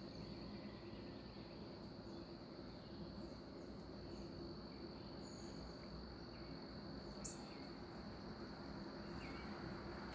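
Crickets trilling steadily in one unbroken high note, with a few short chirps from a bird about five, seven and nine seconds in.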